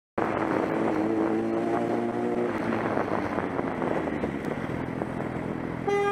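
Motorcycle riding in traffic: engine running over steady wind and road noise, its engine tone clearest in the first couple of seconds. A short, pitched beep, like a horn, sounds near the end.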